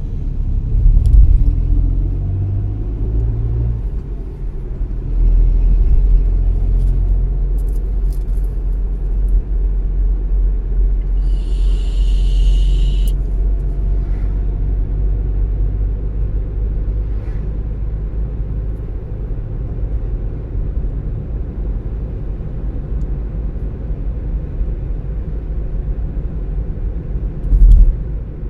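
Car driving on city streets: a steady low rumble of engine and tyres. A short hiss sounds about halves through, and a brief low thump comes near the end.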